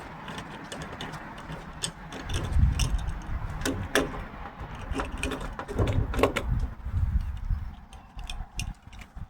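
Old door hardware being handled and taken off a metal door: scattered metallic clicks, rattles and knocks, with heavier low bumps in the middle.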